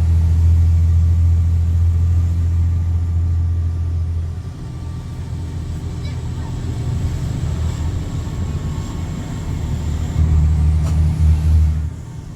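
Straight-piped Cummins C8.3 diesel in a school bus: a deep, loud exhaust drone under throttle for about the first four seconds, easing off, then pulling hard again for a couple of seconds near the end before the throttle lifts.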